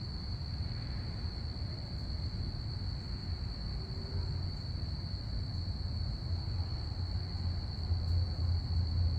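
Crickets chirping in a steady, unbroken high trill. Under it runs a low rumble that grows louder near the end.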